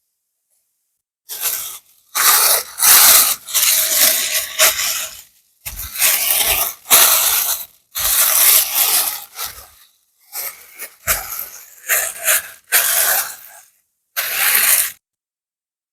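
Close-miked rustling and rubbing in a series of short, loud strokes with brief pauses, stopping about a second before the end.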